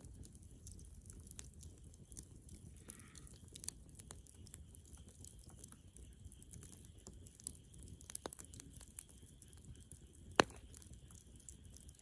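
Bonfire of dead wood crackling, with scattered sharp pops and one loud snap about ten seconds in, over a low steady rumble.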